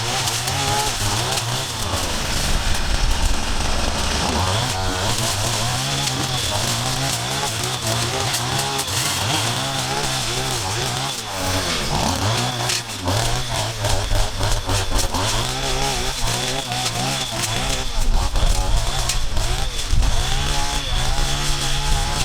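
Small two-stroke engines of gas-powered yard-clearing tools running under load, their pitch wavering up and down constantly.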